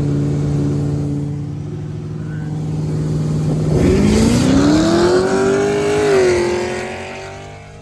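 Car engine running at a steady speed, then about four seconds in it revs hard and rises in pitch as the car accelerates in a race run. It peaks about two seconds later, drops in pitch and fades away.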